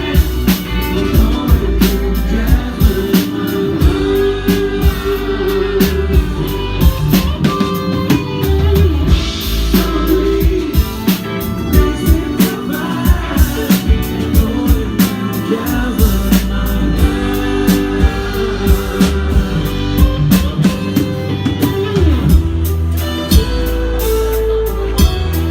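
Live soft-rock band playing with a steady drum-kit beat, bass and electric guitar, and a wavering melodic lead line.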